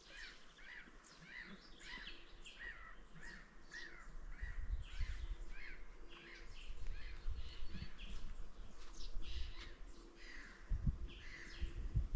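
Birds calling: a short call repeated about twice a second at first, then more varied calls. A low rumble comes and goes from about four seconds in.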